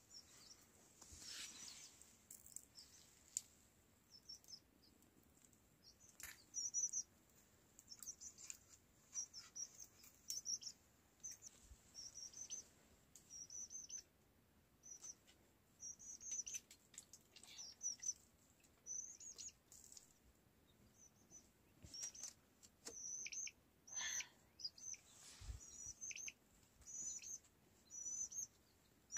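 A small bird chirping over and over, short high chirps about once a second, with a few faint knocks and clicks.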